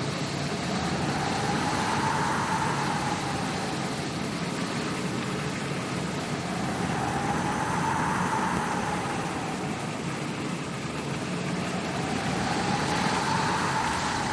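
Howling wind sound effect: a steady rush with a whistling tone that rises and falls in pitch three times, about every six seconds.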